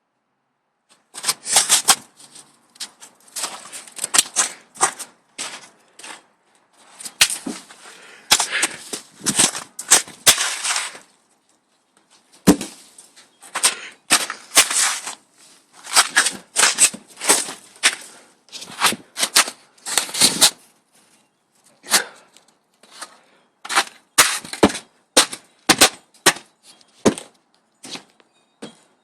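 Snow crunching in quick, irregular bursts of sharp crackles with short pauses between them.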